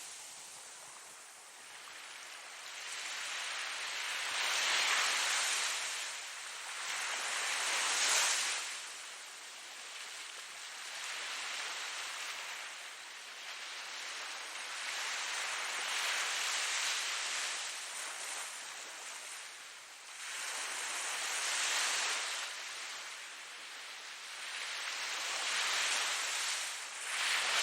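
Ocean surf: waves breaking and washing in one after another, the hiss swelling and fading every few seconds, the last one, near the end, the loudest.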